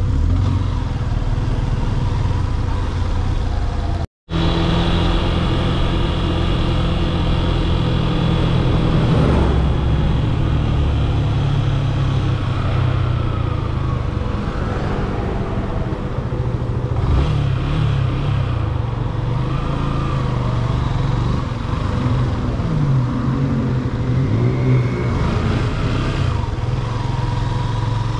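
Yamaha FZ S V3's 150cc single-cylinder engine running on the move, its note rising and falling as the throttle opens and closes. The sound cuts out completely for a moment about four seconds in.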